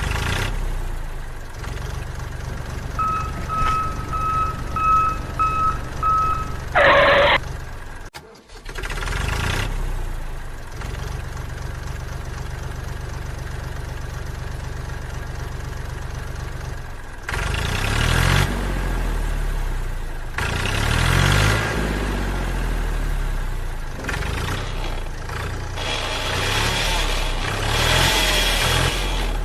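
A mini tractor's engine running, with about six short, evenly spaced beeps around the third to sixth second and a brief falling tone right after. Several seconds later the engine revs in rising and falling surges.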